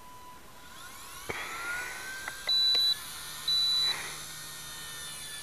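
Blade mCPX micro helicopter's electric motors spinning up, a thin whine that rises in pitch, with a few sharp clicks. Two short, loud, high-pitched beeps sound about a second apart in the middle.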